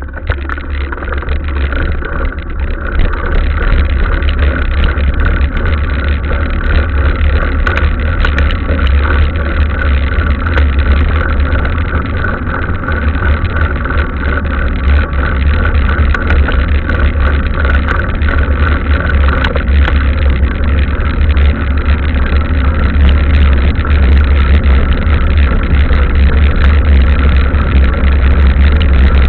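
Steady, loud low rumble of wind and tyre noise on a camera carried on a mountain bike riding a trail, with scattered small ticks and rattles.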